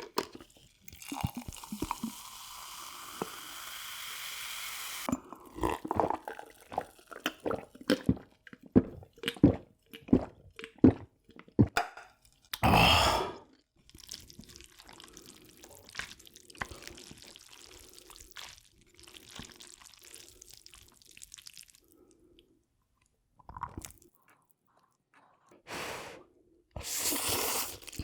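Cola poured into a glass, a steady fizzing hiss for about four seconds that swells slightly. Then gulping and clicking mouth sounds of drinking and eating, with a louder burst about thirteen seconds in and a few more near the end.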